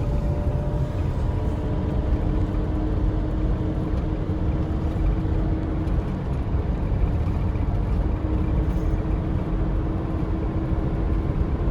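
Steady road and engine noise of a moving car: a constant low rumble with a faint steady hum.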